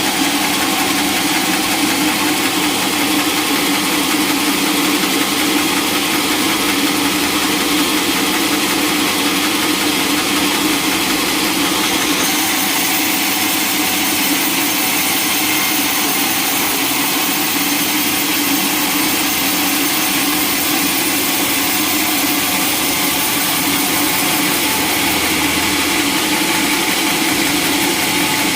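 Sawmill machinery running with a steady engine-like drone, a thin high whine joining about twelve seconds in.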